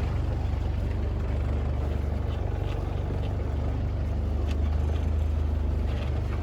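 Boat engine running steadily, a low hum, with a few faint light clicks now and then.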